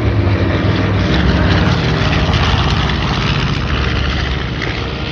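B-25J Mitchell bomber's twin Wright R-2600 radial engines droning on a low pass. Loudest about two seconds in, then fading with a slight drop in pitch as it goes by.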